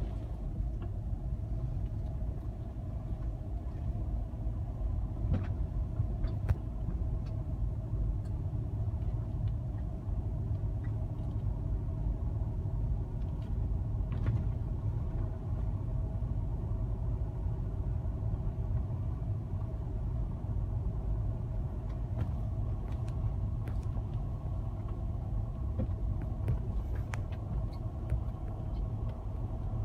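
Car driving at low speed: steady engine and tyre rumble with a faint constant hum, and a few small clicks and knocks now and then.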